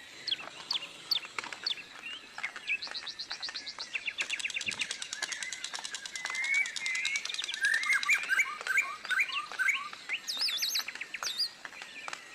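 Several songbirds chirping and singing together, with fast trills and sweeping whistled notes that grow busier toward the middle.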